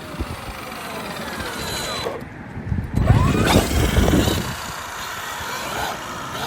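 Traxxas XRT Ultimate RC monster truck's brushless electric motor and gears whining, rising and falling in pitch as it drives, with a louder rough stretch of motor and tyre noise about three seconds in.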